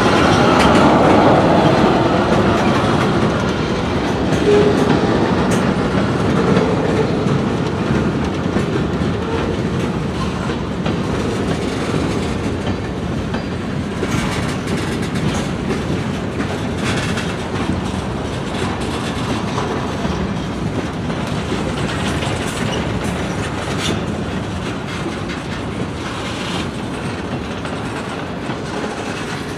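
Freight train cars rolling past, wheels clicking over rail joints with a steady rumble that eases slightly after the first few seconds.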